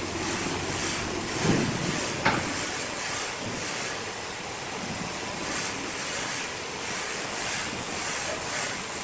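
Sawmill machinery running with a steady, noisy rumble, a thump and a sharp clack about two seconds in.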